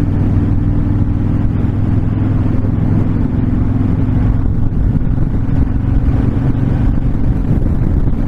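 Honda VTX1300 V-twin engine running steadily at cruising speed, with wind rushing past the microphone.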